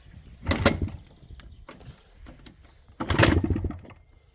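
WSK 175 Kobuz two-stroke single-cylinder engine being kick-started twice. Each kick gives a short, loud cough that dies away instead of running, so the engine is not catching.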